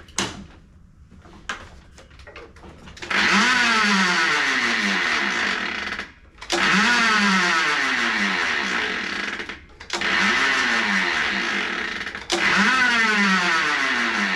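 Toro Recycler push mower's recoil starter pulled four times, about three seconds in and then every three seconds or so, each pull giving a winding whir that sweeps up and down in pitch over and over, like winding up a toy. The engine spins over with hardly any compression. Light clicks of handling come first.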